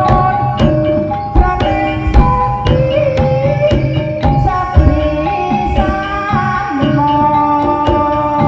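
Live ebeg (jaran kepang) accompaniment music: frequent hand-drum strokes over sustained melodic tones.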